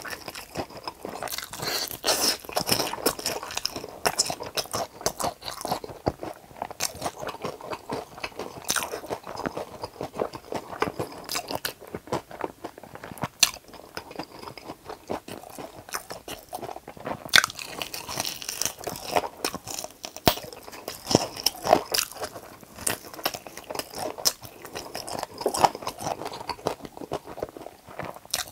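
Close-miked biting and chewing of a fried chicken drumstick: a dense, irregular run of crunches and moist mouth clicks as meat and batter are torn from the bone and chewed.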